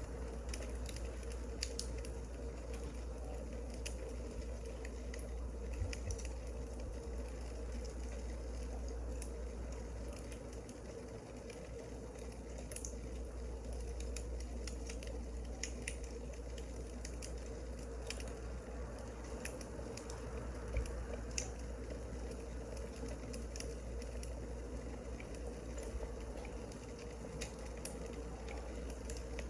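Firewood burning, crackling with scattered sharp pops and snaps over a steady low hum.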